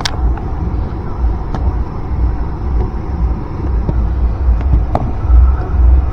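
Car engine revved hard over and over as the gas pedal is pumped, its loudness swelling and falling. There is a sharp click about five seconds in.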